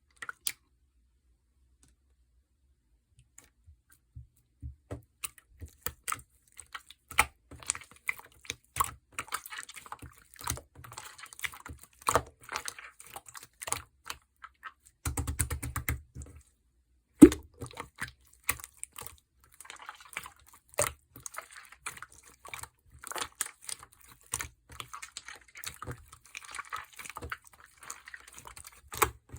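Irregular light clicks and taps of cups, bottles and utensils being handled while a melon milk drink is made. A short buzzing sound comes about halfway through, followed by a sharp knock.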